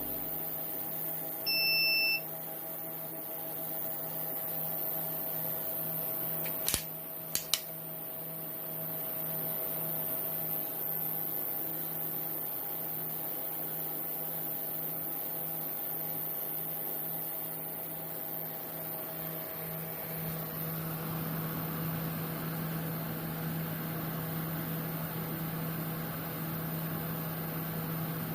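APC Smart-UPS SRT uninterruptible power supply running with a steady electrical hum. One short beep about two seconds in, then three sharp clicks a few seconds later. A rushing noise builds up under the hum after about twenty seconds.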